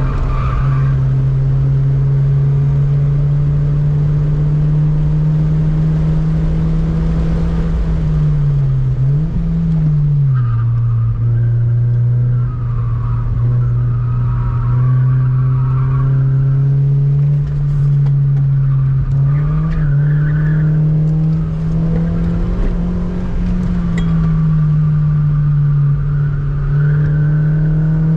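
Toyota Vios's 2NZ four-cylinder engine running hard at high revs on track. The pitch dips suddenly about nine seconds in, holds lower, then climbs again in the second half.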